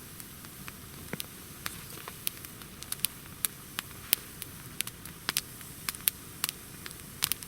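Campfire of damp, wet wood crackling: irregular sharp pops, a few a second, over a steady hiss.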